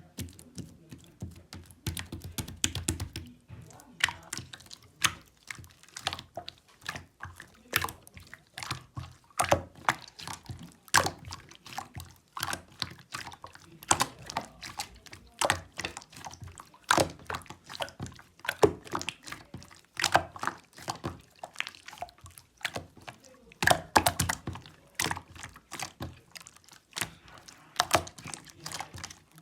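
Purple opaque slime worked and squished by hand, giving a dense, irregular run of sticky clicks and pops.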